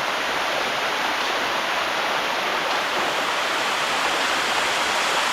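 Water of the Bua Thong sticky limestone waterfall rushing down its cascades, a steady, even rush with no change.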